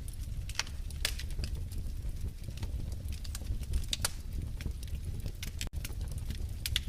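Wood fire burning in a fireplace, crackling with irregular sharp pops and snaps over a steady low rumble of the flames. The sound drops out for a split second near the end.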